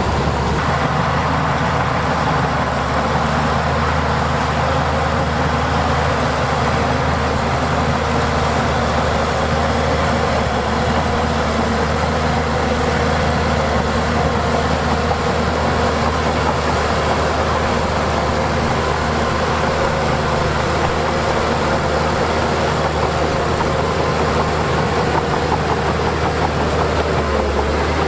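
Heavy diesel earthmoving machinery running steadily under load: a deep, continuous engine drone with mechanical noise on top.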